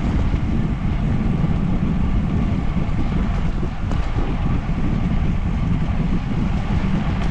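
Wind rushing over the microphone of a moving bicycle, a steady low rumble.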